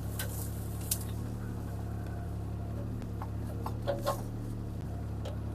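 CAT 303C CR mini excavator's diesel engine running steadily under light load, with a few sharp clicks and cracks from the digging about a second in and again near four seconds.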